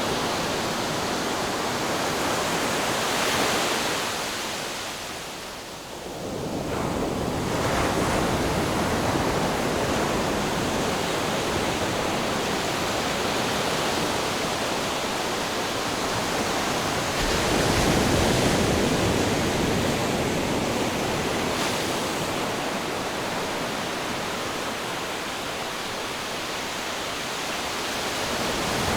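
Ocean surf: a steady rush of waves washing on the shore, swelling about 3 seconds in and again about 18 seconds in, with a brief lull around 6 seconds.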